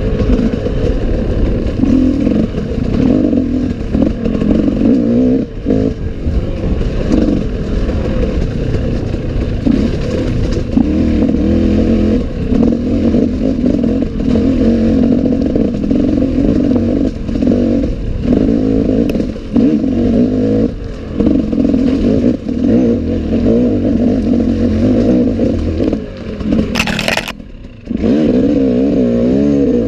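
Enduro dirt bike engine working hard on a rough forest trail, its revs rising and falling continuously, with clatter from the bike. Near the end the engine drops off briefly with a short sharp hiss, then revs up again.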